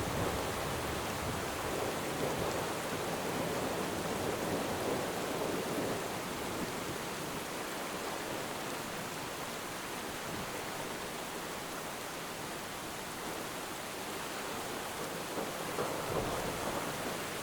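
Steady, continuous rain, with low rumbles swelling up through the first several seconds and again near the end.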